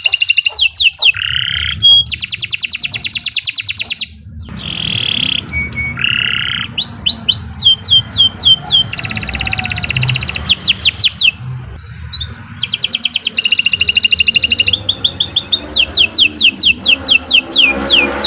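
Domestic canary singing a long song: rapid trills alternating with runs of quick downward-sweeping whistled notes, in phrases broken by short pauses.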